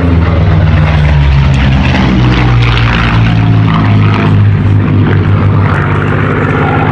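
Propeller-driven aircraft's piston engine droning loudly and steadily during a flying display, with a low, even hum.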